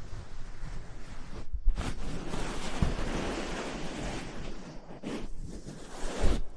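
Close-miked ASMR rustling: a dense, even swish right against the microphone. It swells about two seconds in and eases off near the end, with a few soft low bumps.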